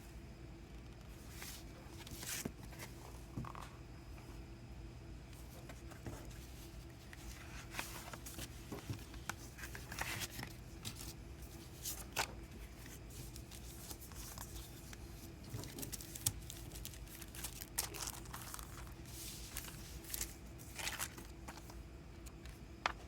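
Faint rustling and crinkling of paper and plastic packaging as a cardboard-sleeve mini-LP CD is handled, with scattered light taps over a steady low hum.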